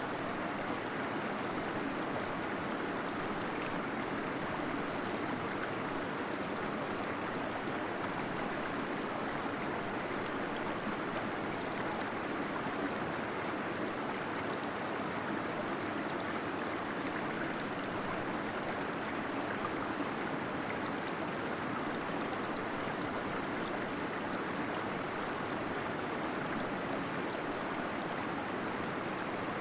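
Small waterfall splashing and gurgling steadily into a pool inside a cave, a constant rush of water.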